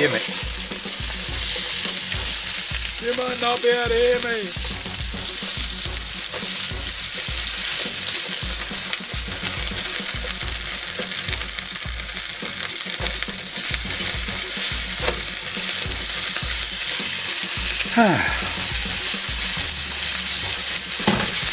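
Prawns and chopped chicken sizzling loudly and steadily in oil in a frying pan heated to smoke point, starting abruptly as they hit the pan, with a spatula stirring and scraping them.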